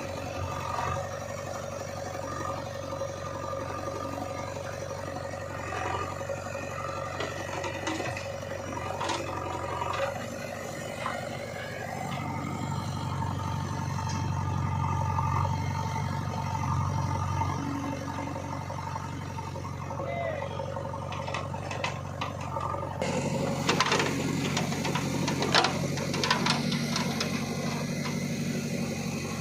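Diesel engine of a JCB 3DX backhoe loader running steadily at work, running harder for a few seconds in the middle. Near the end comes a burst of knocks and rattles.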